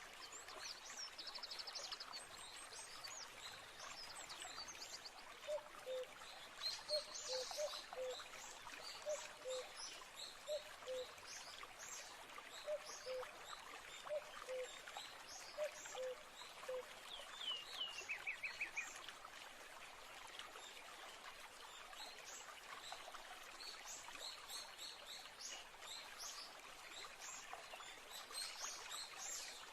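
Running stream water with many songbirds chirping over it. From about five seconds in to about seventeen, a lower two-note bird call repeats roughly once a second, and a little after that a quick falling trill sounds.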